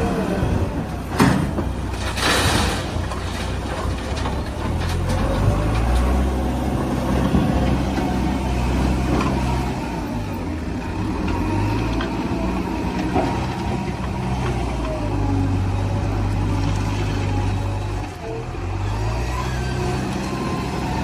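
Heavy diesel engines of a backhoe loader and tractor at work during loading, running steadily with the revs rising and falling several times. A short rushing noise comes about two seconds in.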